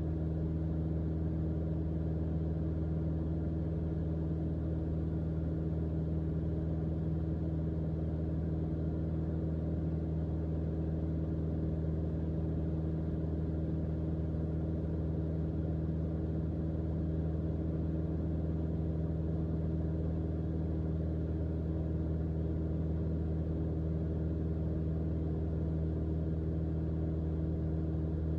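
Mooney M20J's four-cylinder Lycoming IO-360 engine and propeller droning steadily in level cruise, heard inside the cockpit.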